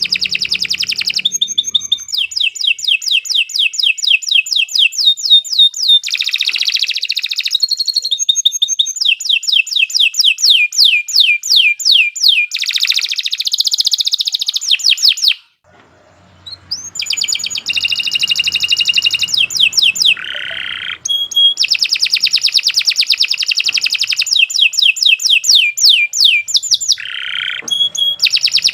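Domestic canary singing a long, continuous song of fast repeated trills, high-pitched, with phrases changing every second or two. The song cuts off briefly about halfway through, then resumes.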